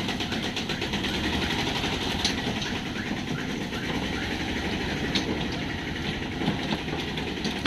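Steady rumble and rattle of a moving passenger train, with a few sharp clicks and knocks.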